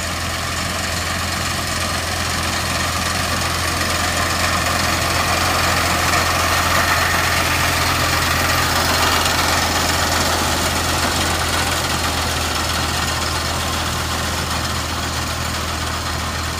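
Fiat tractor's diesel engine running steadily with a deep hum, growing a little louder about halfway through and then easing back.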